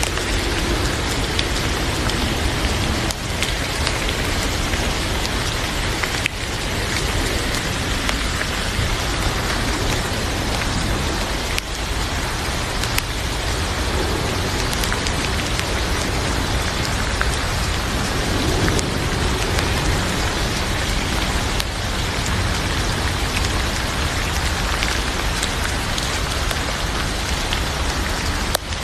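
Heavy rain falling steadily, with scattered sharp crackles from a wood fire in a fireplace.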